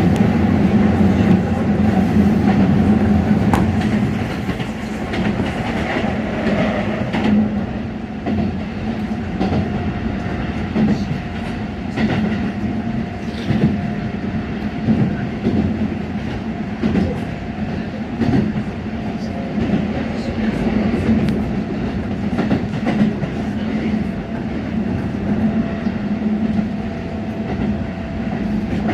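Train running on the rails: a steady hum with frequent short clicks from the wheels.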